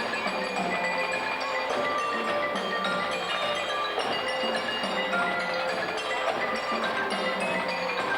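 Band music with bell-like mallet percussion, such as glockenspiels, playing many short, ringing notes.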